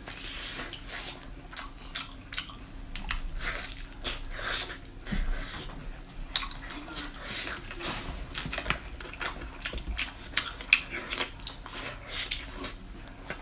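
Close-up wet chewing and lip-smacking of someone eating sticky, glossy braised meat off the bone: many quick, irregular moist clicks and smacks.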